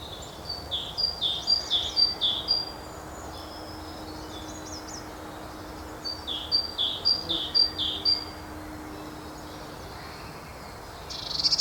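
Great tit singing its two-note 'teacher, teacher' song, a higher note then a lower one, about five phrases to a bout in two bouts. Fainter songbirds call between the bouts over a faint steady low hum, and a short burst of busy high notes comes near the end.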